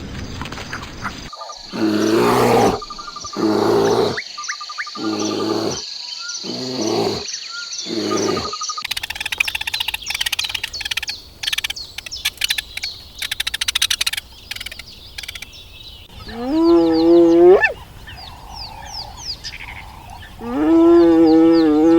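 Animal calls: about five short pitched calls over a steady high tone, then a stretch of quick chirping, then two long calls that rise in pitch at the start, the second near the end.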